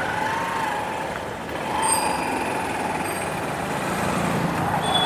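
Motorbike running at riding speed, with steady road and wind noise.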